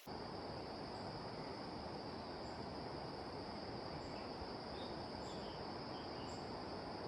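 Insects, crickets by their sound, trilling one continuous high note with a few short chirps, over a steady dense rush of heavy rain.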